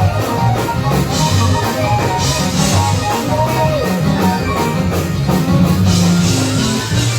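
Live gospel band playing an up-tempo praise-break groove, with drum kit, bass and guitar over a steady fast beat.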